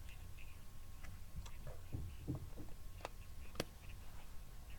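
A faint, muffled voice in low background hum, with two sharp clicks about three and three and a half seconds in.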